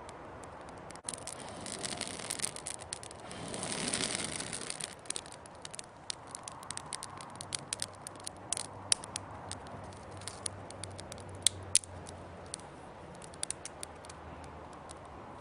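Small wood fire of dry twigs crackling, with irregular sharp pops and a louder rushing swell about four seconds in.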